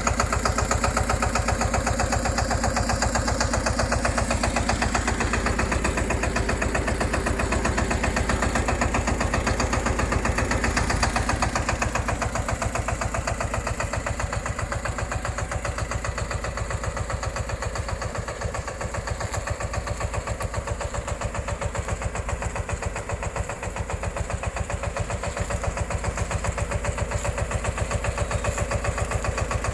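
Small tractor's engine running steadily with a fast, regular beat, easing a little in loudness past the middle, then picking back up.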